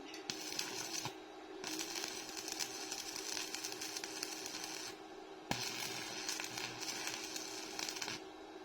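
Electric arc welding on a steel grate: a crackling, sizzling hiss in three bursts, one short and two of about three seconds each, with a sharp snap as the arc is struck before the last burst.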